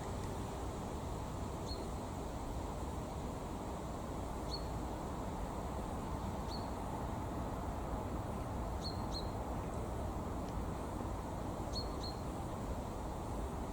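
A small bird gives short, high single chirps every two to three seconds, sometimes two in quick succession, over a steady low background rumble.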